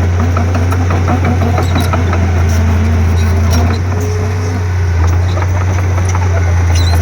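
Komatsu D31P bulldozer's diesel engine running steadily under a low drone, with scattered light clicks and clanks.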